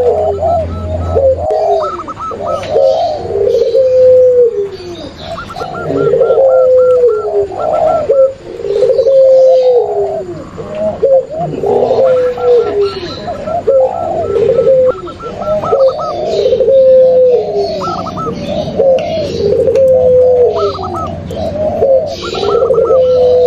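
Several doves cooing over one another: zebra doves, spotted doves and puter pelung doves. Drooping coos repeat every second or two, with runs of quick, short, higher notes laid over them.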